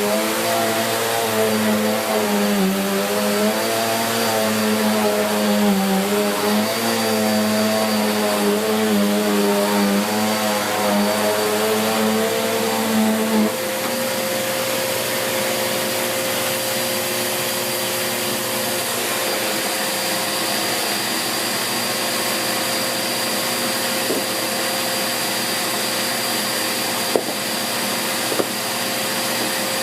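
Bissell Cleanview Plus 1900W bagless vacuum cleaner running on carpet with its brush roll turning. Its motor note wavers as it is pushed back and forth, then about thirteen seconds in it settles to a steady, slightly quieter note, with a few light clicks near the end.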